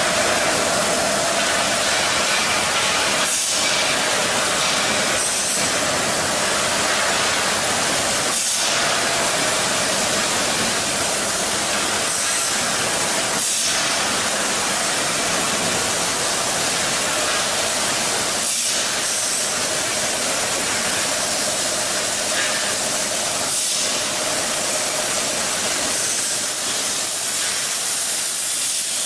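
A steady hiss broken by brief dips every few seconds.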